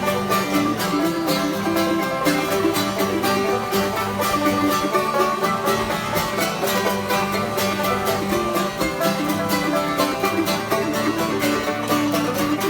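A country string trio playing an instrumental break between verses, with plucked strings picking out a quick, steady rhythm.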